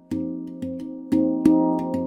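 Stainless steel handpan (F Venus 9, an F minor scale) played by hand: about five notes struck in a slow, even rhythm, each ringing on and fading away under the next.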